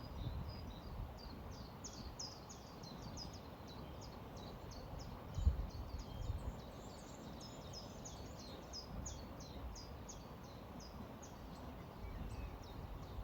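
Small birds chirping in quick series of short, high calls over a steady rush of flowing river water, with two low thumps about halfway through.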